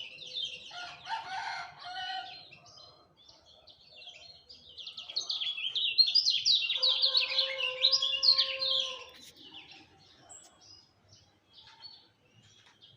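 A kecial kuning songbird sings fast, high-pitched chirping phrases in two loud bursts, at the start and from about five to nine seconds in, then gives only scattered chirps. A rooster crows behind it in one long held call near the middle of the second burst.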